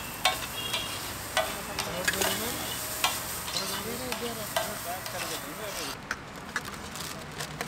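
Chopped onions sizzling on a large flat iron griddle, with a metal spatula scraping and clacking against the griddle again and again. The sizzle drops away about six seconds in.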